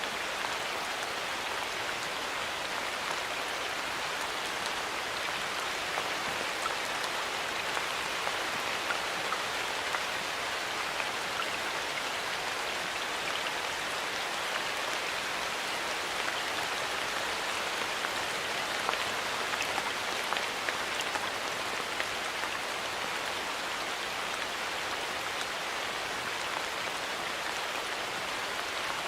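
Steady rain falling in a forest, an even hiss with many small drops ticking on leaves and surfaces.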